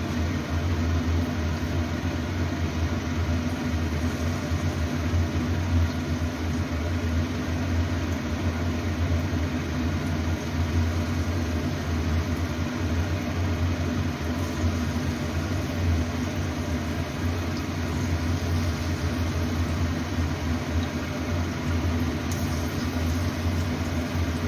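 Marinated chicken pieces frying in oil in a frying pan, a steady sizzle over a steady low hum.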